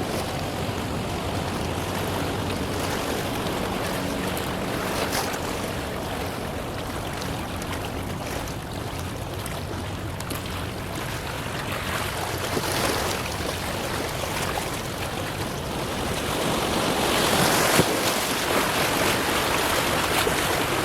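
Steady rush of wind and water at the harbour side, growing louder for a few seconds near the end, with a faint low steady hum underneath in the first half.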